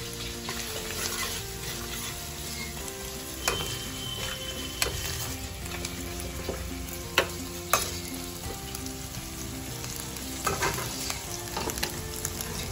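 Sliced onions, green chillies and bay leaves, with freshly added garlic paste, sizzling in hot oil in a karahi. A spatula stirs them, scraping and knocking against the pan a few times.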